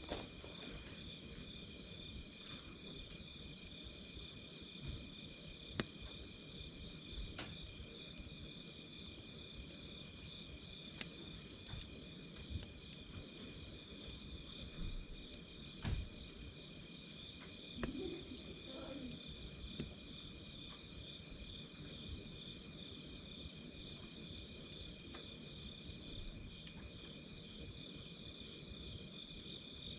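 Wood campfire crackling, with scattered sharp pops, over a steady chorus of crickets chirping.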